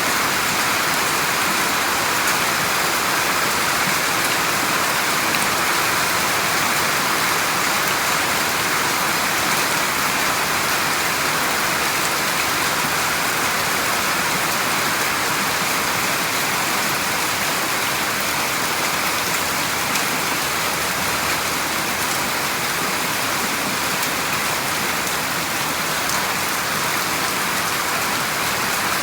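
Steady rain falling and pattering on a surface, an even hiss of many drops with no break.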